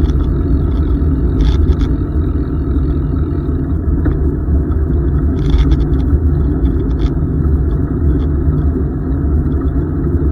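Steady low rumble of wind buffeting and tyre noise picked up by a camera riding along on a moving bicycle, with a few faint high ticks.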